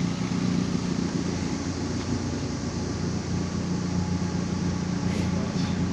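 Ford Ranger pickup truck being driven: its engine runs at a steady hum under a constant wash of road and body noise.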